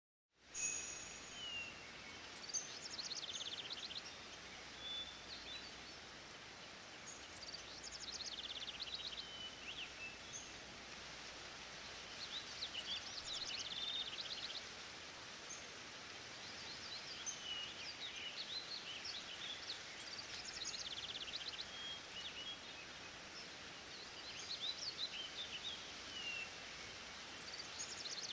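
Recorded forest ambience: songbirds singing repeated phrases of quick high chirps and trills over a steady background hiss, which starts abruptly.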